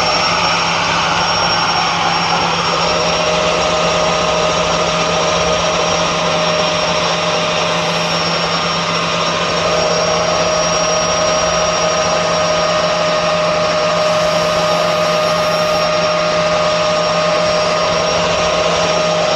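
Electric vacuum cleaner running loudly and steadily at full speed, with a high, even whine from its motor, used for cleaning.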